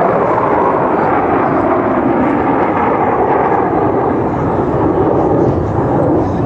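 Loud, steady engine noise of a jet aircraft flying by.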